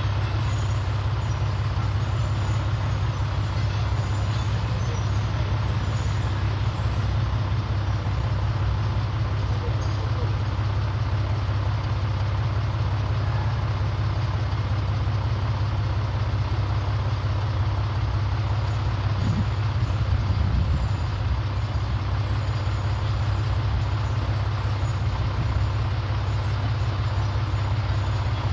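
Komatsu D31PX bulldozer's diesel engine running steadily with a deep, even drone, swelling briefly about two-thirds of the way through.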